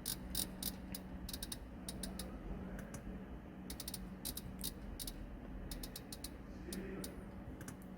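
Audi MMI rotary control dial being turned through its detents, giving runs of light ratchet-like clicks in small irregular bursts as letters are selected one at a time.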